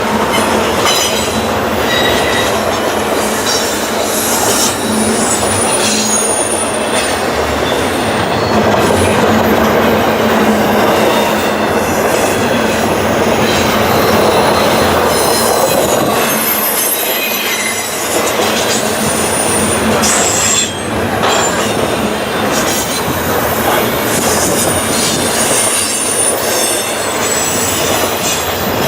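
A long freight train of double-stack container cars rolling past, with a steady rumble and clatter from the wheels on the rails. High-pitched wheel squeal comes and goes throughout.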